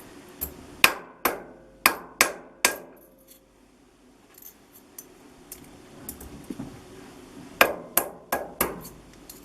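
Hammer blows on a thin cut steel bracket to flatten it: six sharp strikes in the first three seconds, a few light taps, then a second quick run of about five strikes near the end.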